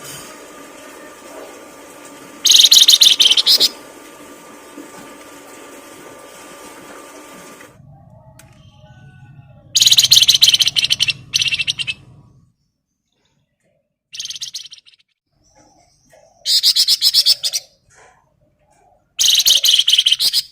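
A songbird singing loud, rapid high trills in five separate bursts of about a second each, with pauses between.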